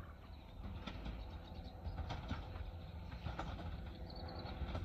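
Passenger train approaching along the line while still some way off: a low, steady rumble with scattered clicks from the track. A bird chirps briefly near the end.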